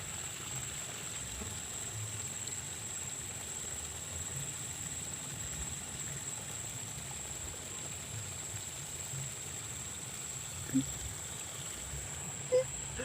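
Steady wash of flowing water beside a rice paddy after rain, with a continuous thin high whine over it. Two brief faint knocks come near the end.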